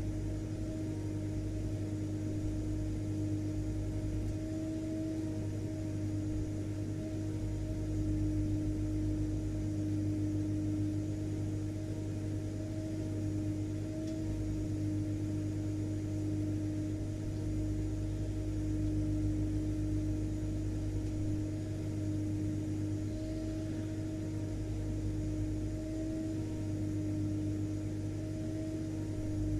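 Vacuum cleaner running steadily: an unchanging motor drone with a constant pitched hum over rushing air.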